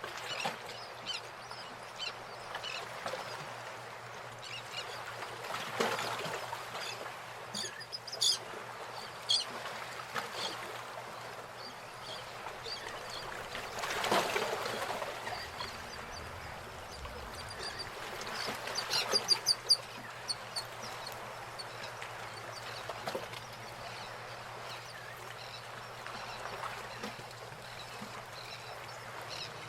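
Outdoor ambience with birds calling: short rapid series of high calls stand out about eight seconds in and again near two-thirds of the way through, over a steady background haze and a low hum.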